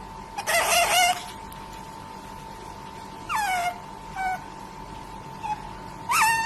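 Short animal calls, four cries in all, the loudest about half a second in and one falling in pitch at about three seconds, over a steady high-pitched tone.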